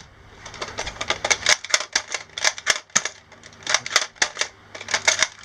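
A rapid, irregular run of sharp clicks and snaps, several a second.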